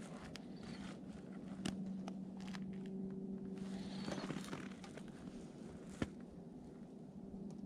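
Footsteps on a forest trail, with scattered crunches and clicks and one sharper snap about six seconds in, over a faint steady low hum.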